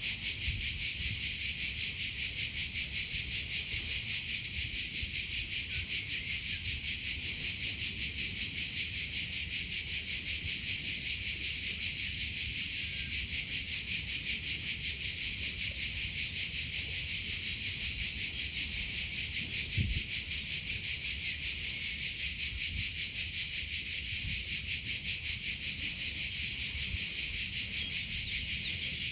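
Crickets chirping steadily: a continuous high-pitched trill pulsing rapidly and evenly.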